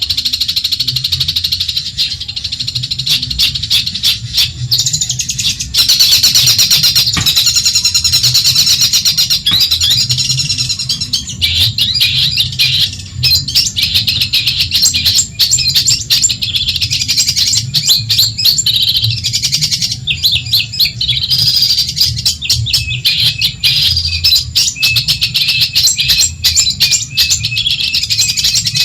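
Long-tailed shrike (cendet) singing a fast, unbroken run of rapid high chattering notes, over a low steady hum.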